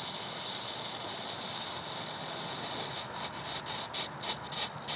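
Small lit firework hissing steadily, then breaking into rapid sputtering spurts, about four a second, from about three seconds in.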